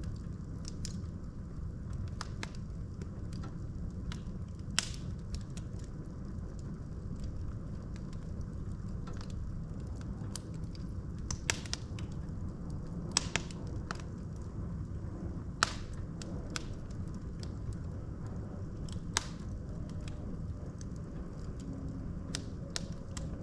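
Wood fire burning in a fireplace: a steady low rumble of the flames with scattered sharp crackles and pops from the logs, a few of them louder than the rest.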